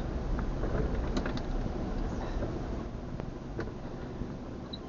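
Low, steady rumble of a truck heard from inside the cab as it idles or creeps along, easing off slightly, with a few faint clicks.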